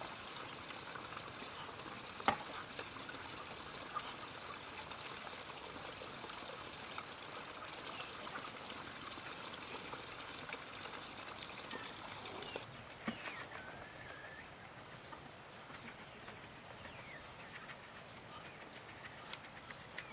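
Water running and trickling, with short high chirps over it and a sharp knock about two seconds in; the sound steps down a little about two-thirds of the way through.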